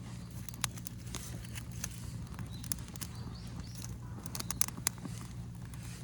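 Bonfire of burning rubbish crackling with irregular sharp snaps and pops, a few louder ones near the end, as the fire has just caught. A steady low hum runs underneath.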